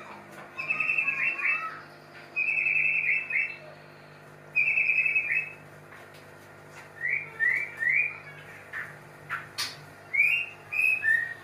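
White-rumped shama calling: three rapid trilled phrases in the first six seconds, then a run of short rising whistled notes. A sharp click comes about nine and a half seconds in.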